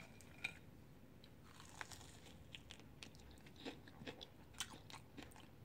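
Faint crunching and chewing as a person bites into a Flamin' Hot Cheetos–crusted chicken wing: a scatter of small, crisp bites and mouth sounds.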